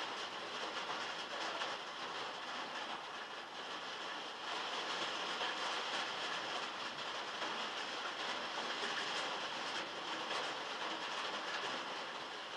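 Heavy rain falling on a metal roof, heard from inside a shed: a steady, dense patter that gets a little louder about four seconds in.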